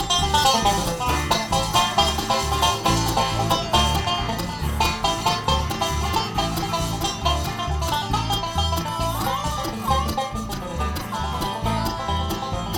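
A bluegrass band playing an instrumental break, with fast banjo and guitar picking over a steady, regular bass line.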